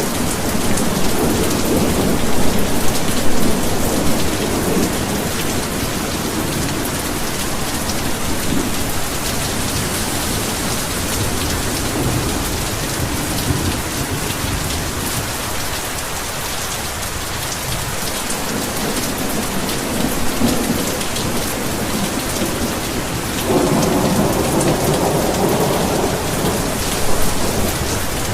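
Heavy rain falling steadily in an even hiss, with deep rolls of thunder rumbling in the first few seconds and again about three-quarters of the way through.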